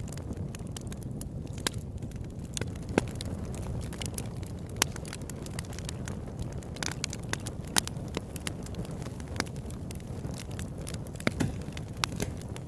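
Campfire burning: a steady low rush of flame with irregular wood crackles and pops, a few of them sharp, louder snaps.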